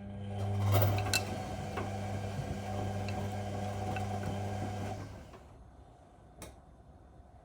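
Whirlpool Indiana 1400 washing machine's motor turning the drum in one wash stroke for about five seconds, a steady hum with a few light clicks, then stopping. A single click follows about a second later.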